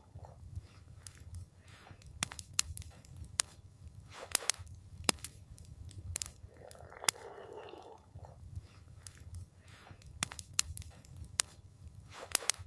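Wood campfire crackling, with irregular sharp pops and snaps over a steady low rumble of soft wind, and a brief soft rushing swell about six to seven seconds in.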